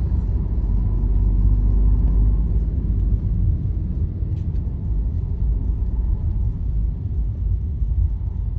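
Steady low road rumble of a moving vehicle on the highway, engine and tyre noise heard from inside, with a few faint ticks.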